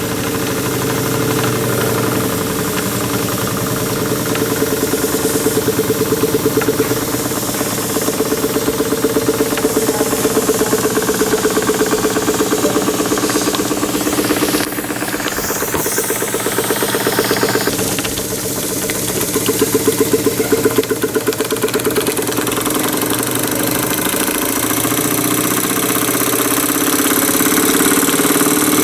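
Jensen toy steam engine with a slide-valve cylinder running on low-pressure live steam, a steady fast mechanical beat with a running whir and light clatter.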